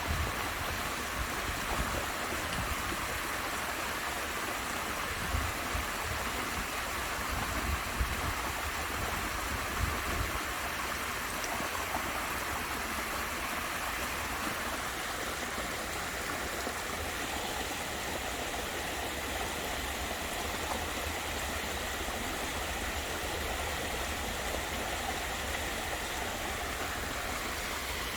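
Waterfall splashing and rushing steadily, with a few low bumps in the first third.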